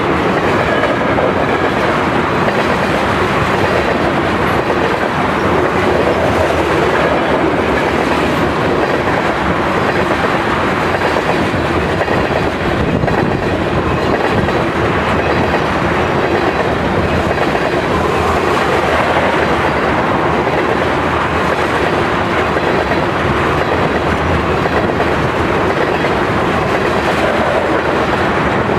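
Long freight train of tank wagons rolling past close by, its steel wheels running steadily and loudly over the rails.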